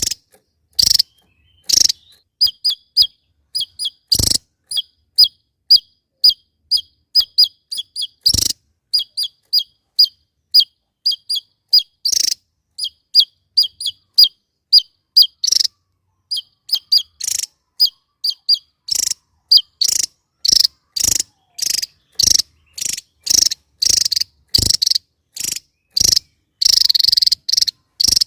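Javan tesia calling: a long run of short, sharp, high notes, about two or three a second, mixing clipped chips with brief hooked notes.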